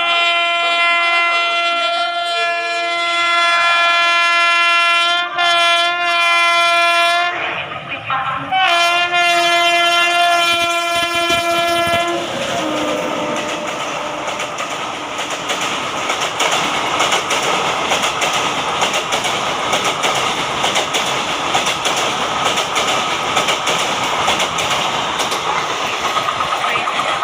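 Electric locomotive of an Indian Railways express blowing a long horn, with a few brief breaks, as it approaches at speed. About twelve seconds in the horn stops and the train rushes past, with the clickety-clack of its coaches' wheels over the rail joints.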